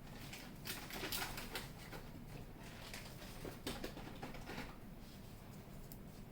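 Light rustling and clicking handling noise in two short spells, the first about a second in and the second near the middle, over a steady low hum.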